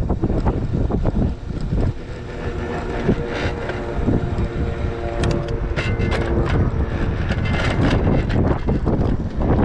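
Wind buffeting the microphone and rumbling road noise while riding an electric bike. A steady hum joins in about two seconds in and fades out about two seconds before the end, and a few sharp clicks or rattles come past the middle.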